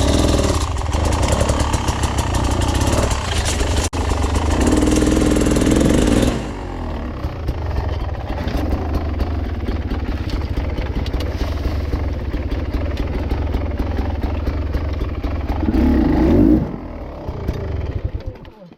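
Off-road dirt bike engine running under load on a rough trail, revving harder for the first six seconds, steadier after that, rising again near the end before it stops abruptly.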